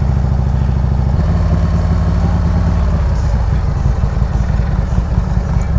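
Harley-Davidson V-twin motorcycle engine running at low speed in slow traffic. Its note shifts about a second in and again near three seconds.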